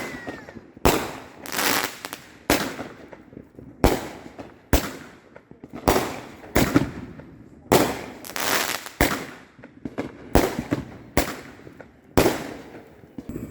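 Fireworks going off around a neighbourhood in a steady string of loud bangs, about one a second, each trailing off in an echoing crackle.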